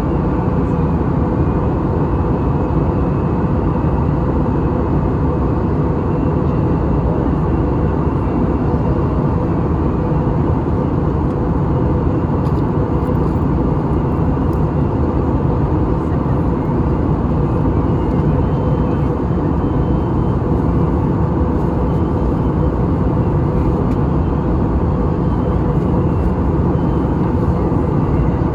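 Airbus A320 in flight: a steady drone of engines and rushing air, with a low hum, unchanging throughout.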